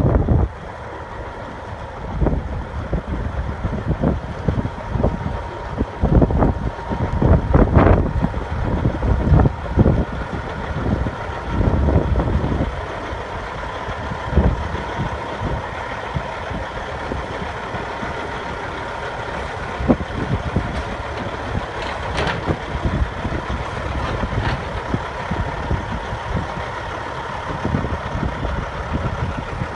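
Peterbilt 379 semi truck's diesel engine idling steadily, with a faint steady high tone running under it. Wind buffets the microphone during the first half.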